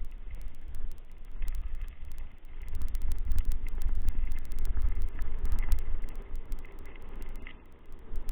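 Wind buffeting the microphone: a heavy, gusting low rumble that grows louder about two and a half seconds in, with scattered faint clicks and rattles.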